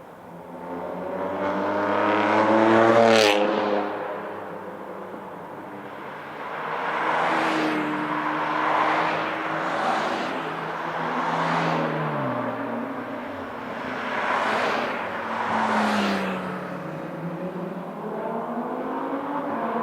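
Porsche 992 GT3 RS's naturally aspirated flat-six through a Brill Steel Edizioni Corsa aftermarket exhaust, accelerating hard and passing loudly about three seconds in. After that the engine note keeps swelling and fading as it revs up and down through the gears, with a falling pitch a little past the middle.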